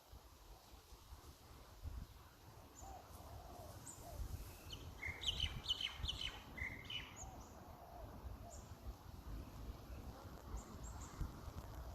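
Birds chirping: a brief burst of high twittering about five to seven seconds in, with fainter lower calls repeating every couple of seconds over a low rumble.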